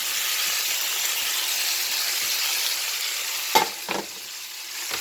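Chicken pieces sizzling as they fry in a pan, with two sharp knocks of a utensil against the pan about three and a half seconds in, after which the sizzle dips briefly.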